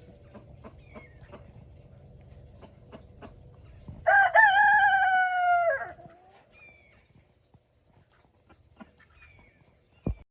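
A rooster crowing once, a call of about two seconds that ends in a falling tail. Faint scattered clicks come before it, and a single sharp knock sounds near the end.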